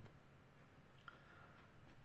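Near silence: faint room tone, with one small click about a second in.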